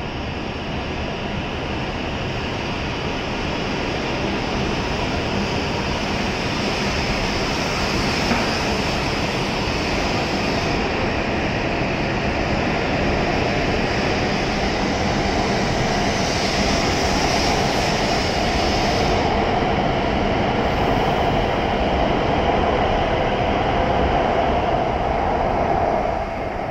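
E7 series Shinkansen departing and accelerating past along the platform, a steady rushing run of wheels and motors. It grows gradually louder, then falls away suddenly near the end as the last car goes by.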